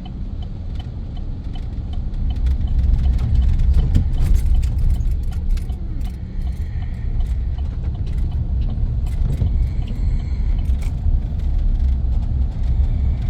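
Pickup truck engine and road noise heard from inside the cab: a steady low rumble that grows louder about two seconds in as the truck picks up speed. A light, evenly spaced ticking is heard in the first couple of seconds, and small rattles from inside the cab come and go.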